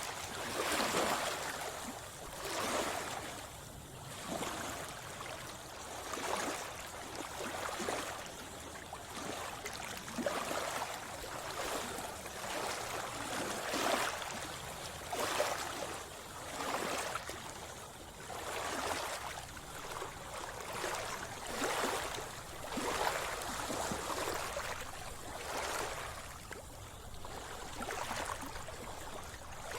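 Swimmer's strokes splashing through seawater in a steady rhythm, a splash about every second and a half.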